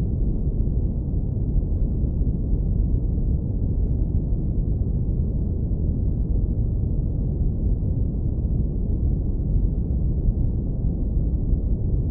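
Steady, deep brown noise filtered down to the low frequencies: an even, warm rumble with no treble and no events.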